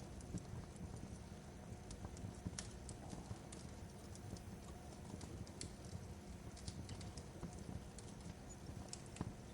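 Crackling fireplace: irregular sharp snaps and pops, several a second, over a low steady rumble of the fire.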